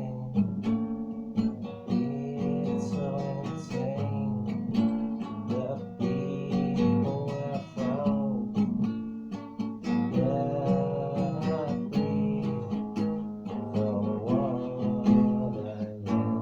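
Acoustic guitar playing an instrumental piece, plucked and strummed notes running on throughout, some of them bending in pitch.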